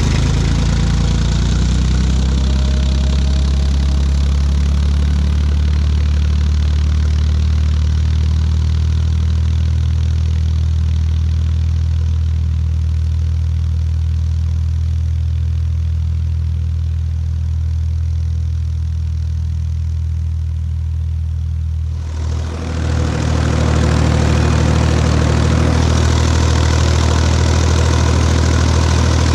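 Tractor engine running steadily with a deep, even drone. About 22 seconds in the sound dips briefly, then returns brighter and noisier above the same drone.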